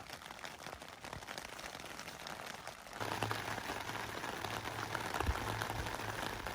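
Steady rain falling, a dense patter of small drop ticks. About three seconds in it gets louder, with a low hum underneath.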